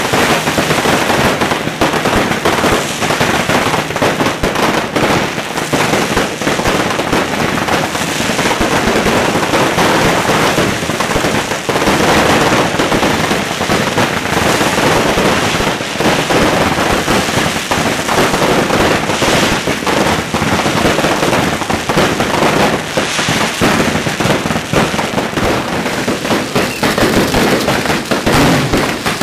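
Beehive fireworks: bottle rockets and firecrackers going off in a dense, unbroken barrage of crackling bangs, loud and without a pause.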